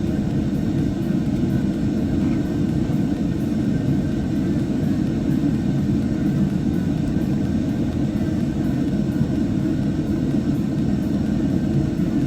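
Steady low rumbling background noise that holds at one level, with no distinct knocks or clicks.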